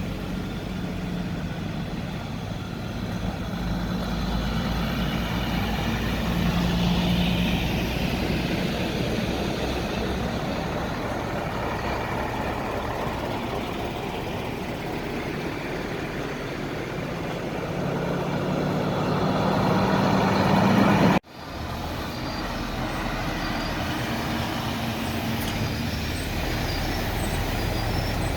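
Heavy truck engines running amid road traffic noise, building up to a peak and then cutting off abruptly about 21 seconds in, after which the engine sound carries on.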